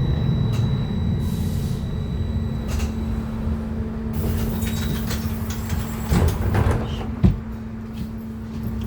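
Interior of a BKM-321 trolleybus: a steady low rumble with a held electric hum. About four seconds in, thin high tones stop and a hiss sounds. A few seconds later comes a sharp, loud clunk, with door-like knocks around it.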